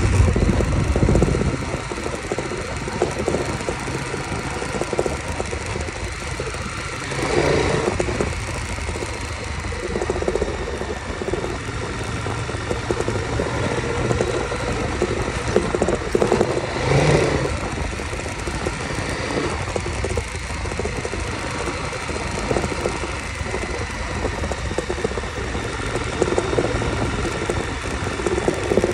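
KTM 1190 Adventure's V-twin engine running as the motorcycle rides along a dirt track. It is loudest in the first second or so and swells briefly about seven and seventeen seconds in.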